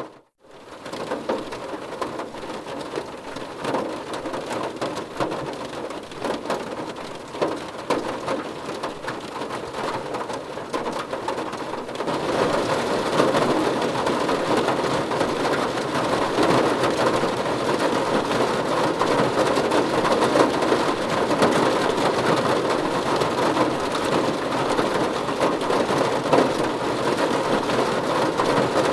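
Heavy rain falling steadily, a dense even hiss of drops on a surface. It cuts out for a split second at the very start, and about twelve seconds in it turns louder and denser.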